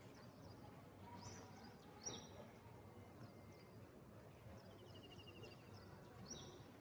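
Faint birdsong: a few sharp down-slurred chirps and, about two-thirds of the way through, a quick even trill of about ten notes a second, over a low steady background hiss.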